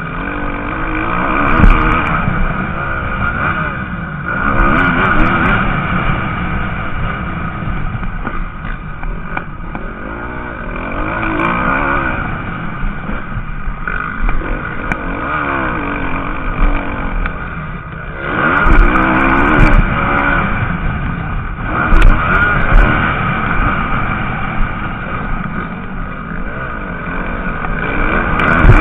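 Several MX2 motocross bikes racing on the track, their engines revving up and down through the gears, with pitches rising and falling as bikes come past louder and fade.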